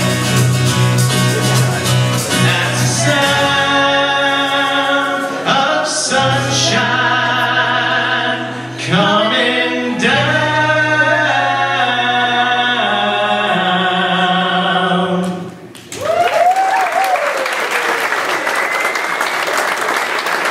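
Voices singing the song's chorus together over acoustic guitar, ending about three-quarters of the way through. Applause then breaks out, with one short vocal whoop in it.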